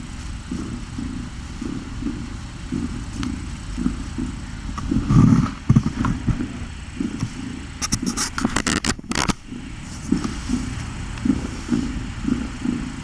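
Cat purring close to the microphone: a steady low rumble that swells and fades in a regular rhythm, one to two pulses a second. About eight seconds in comes a brief burst of scratchy clicks and rustling.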